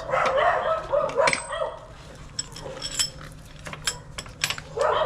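A dog barking for about the first two seconds and again near the end. Between the barks there is a quick string of sharp clicks and taps.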